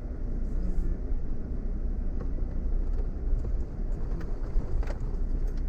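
Off-road vehicle driving over a rough dirt track, heard from inside the cabin: a steady low rumble with a few sharp knocks and rattles, the loudest near the end.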